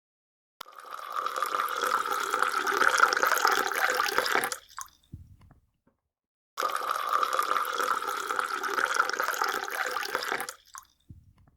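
Water running or pouring in two bursts of about four seconds each. Each starts abruptly and dies away.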